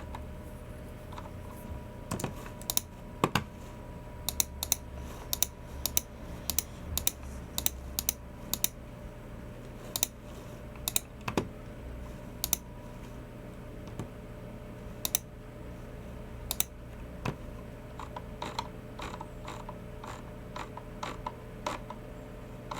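Typing on a Logicool MX Keys Mini low-profile keyboard: irregular keystrokes, quick runs for the first several seconds, then sparser single presses, with a softer run near the end. A faint steady hum runs underneath.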